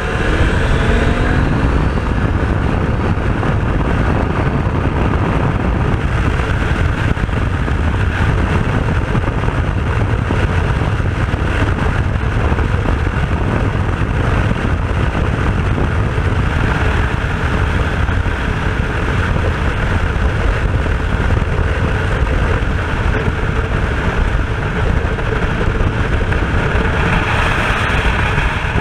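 Aprilia RS250 two-stroke V-twin motorcycle being ridden at speed, its engine rising in revs in the first second or two, under heavy wind buffeting on the microphone.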